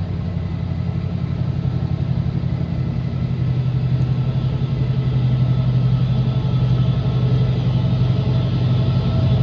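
A train's steady low hum, growing slowly louder as it draws near.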